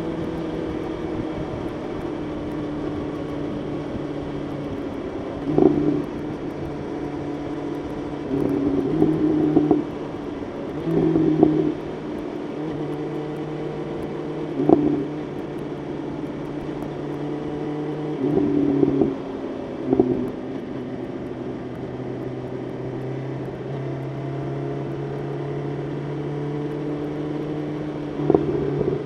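BMW S1000RR inline-four motorcycle engine running at steady highway cruising revs, its note holding nearly level pitch. Several short, louder surges break in: brief ones about a quarter of the way in, midway and near the end, and longer ones of a second or so around a third of the way through and about two-thirds in.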